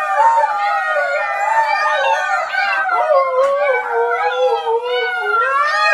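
A dog howling without a break, its long, wavering notes sliding up and down in pitch.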